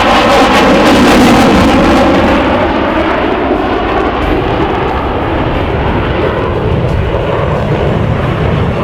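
Jet aircraft flying past, a loud rushing engine noise that is loudest about a second in and then eases to a steady level.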